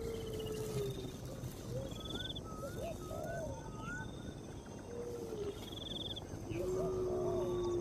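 Birds calling outdoors: long level whistled notes about a second each, short wavering notes, and a short high buzzy trill repeating every second or two, over a steady insect-like hiss.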